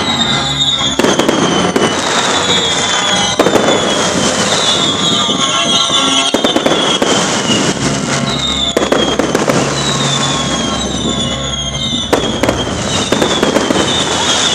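Fireworks display: a steady barrage of bangs and crackling, with many falling whistles repeating every second or two.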